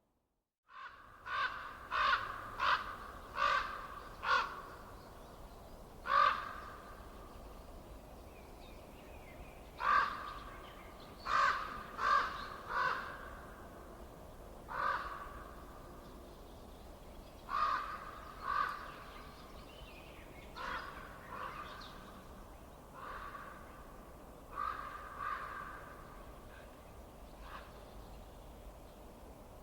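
A bird giving harsh calls in short runs of two to five, each call well under a second long, over a faint steady background noise. The sound cuts in suddenly after a near-silent moment at the start.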